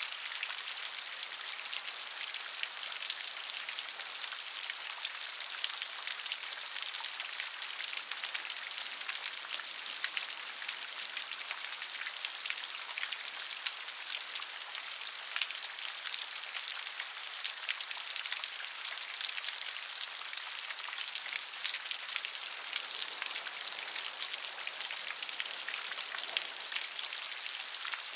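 Steady rain: a dense patter of individual drops over an even hiss.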